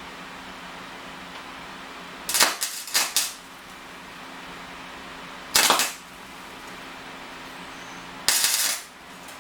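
Short, harsh, scraping bursts from work on an old car side-view mirror being taken apart: a quick cluster of three about two seconds in, a single one in the middle and a longer one near the end.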